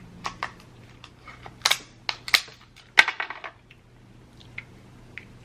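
King crab leg shell being cracked and broken apart by hand: a string of sharp cracks and crunches, the loudest three in the middle, then a few faint clicks near the end.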